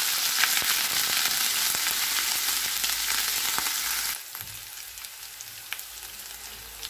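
Ginger-garlic paste sizzling in hot oil in a non-stick frying pan, stirred with a wooden spatula at first. About four seconds in the sizzle drops suddenly to a quieter crackle with scattered pops.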